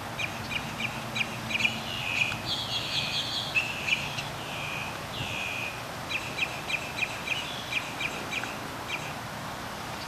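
Small birds chirping and calling: a run of quick, sharp notes, with a few longer slurred calls between about two and six seconds in, over a steady hiss.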